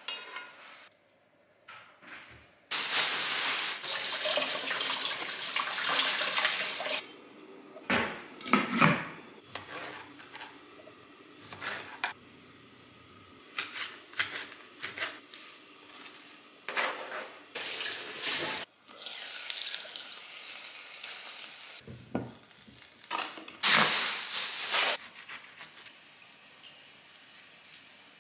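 Kitchen cooking sounds: a pan lid and pots clattering, a few seconds of steady hissing, and a knife chopping leafy greens on a cutting board, with short knocks and clinks throughout.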